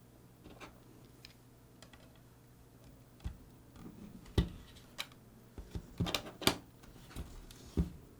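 Irregular clicks and taps of small parts and tools being handled while a Sony HVR-DR60 hard-disk recorder is taken apart, sparse at first and then several louder knocks in the second half. A faint steady low hum runs underneath.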